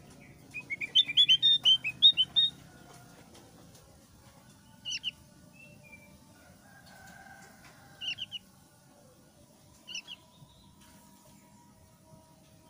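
Javan grey-throated white-eye (opior Jawa) singing: a fast run of about a dozen short, loud, downward-slurred high notes in the first couple of seconds, then single short calls every two to three seconds.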